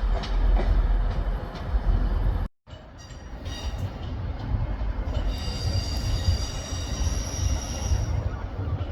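Train rumbling past the platform, cut off abruptly about two and a half seconds in, then rumbling again with a high, steady squeal of wheels on the rails through the middle and later part.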